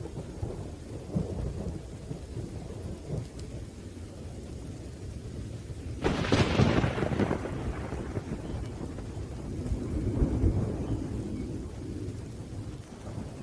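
Steady rain with rolling thunder; about halfway through a sharp, close thunderclap cracks and rumbles away over a couple of seconds, and a second lower rumble swells near the end.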